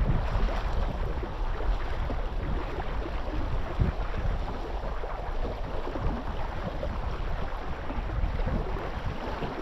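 Wind buffeting the microphone in gusts, over the wash of moving water.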